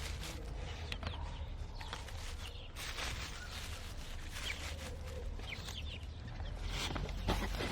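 A mother hen clucking among her newly hatched chicks, with short, high chick peeps scattered throughout and a low steady rumble underneath.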